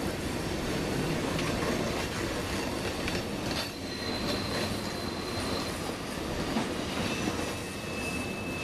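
Freight train tank cars rolling around a curve: a steady rumble of steel wheels on rail with occasional clicks, and a thin, high wheel squeal about four seconds in lasting about two seconds, then another starting near the end.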